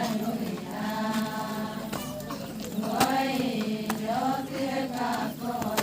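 Voices chanting an Adi ponung song, with held notes that bend in pitch. A few sharp clicks cut in, the strongest about three seconds in.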